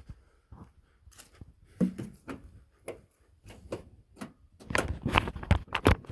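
Scattered clicks and knocks, then a burst of louder clunks near the end, as the door of an old 1969 International pickup is worked open and things inside the cab are handled.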